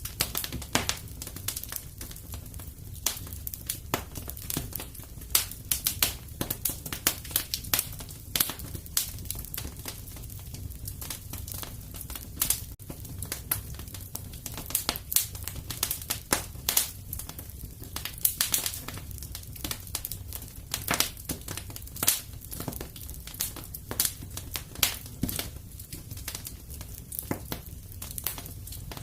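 Wood fire in a fireplace crackling, with irregular sharp pops and snaps over a low steady rumble of flames.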